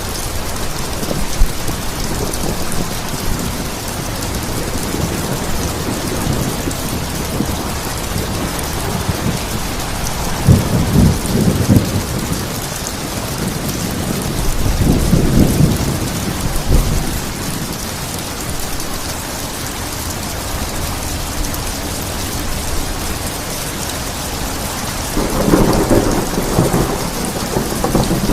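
Steady heavy rain falling, with thunder rumbling low three times: about ten seconds in, again around fifteen seconds, and near the end.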